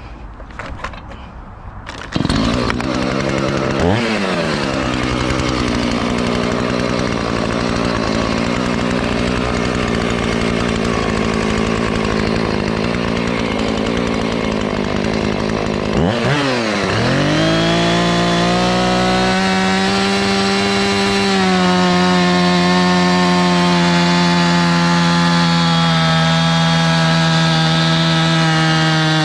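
Chainsaw starts up about two seconds in and runs at high revs, cutting into a log. The engine note dips and climbs back twice, once shortly after it starts and again about halfway through, then holds steady and high.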